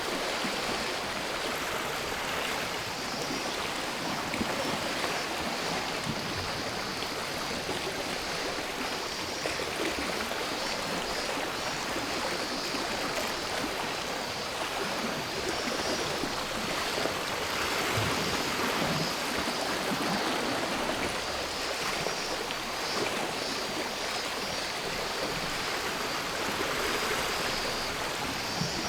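Sea waves washing and rolling in steadily on the shore, swelling gently every few seconds, with a steady high cicada drone over them.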